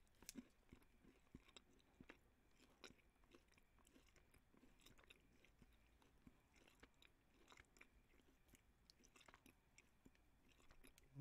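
Faint chewing of a SlimFast Keto chocolate chip cookie dough meal bar close to the microphone: soft, scattered mouth clicks and smacks, a little busier near the start right after a bite.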